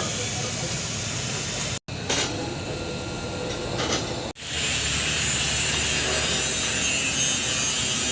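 TIG welding arc hissing steadily, cutting out abruptly twice, briefly each time, in the first half.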